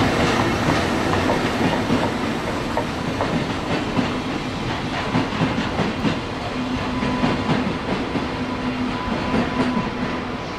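Train of hopper wagons hauled by an EF65 electric locomotive rolling past, wheels clicking over rail joints; the clicking thins out later as the last wagon goes by, and a steady hum joins about two-thirds in.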